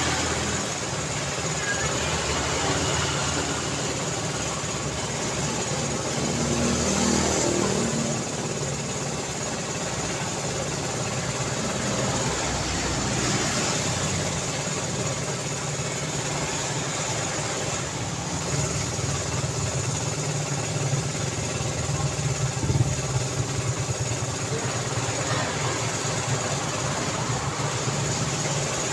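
Daytime road traffic: a continuous wash of vehicle engines and tyres as vehicles pass steadily, with a few louder passes swelling and fading, and a brief louder peak a little before the end.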